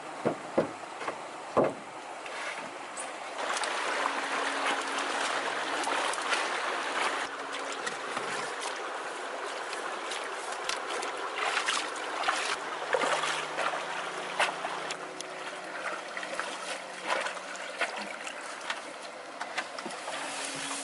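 Water running and splashing, with scattered knocks and clicks and a few louder knocks in the first two seconds.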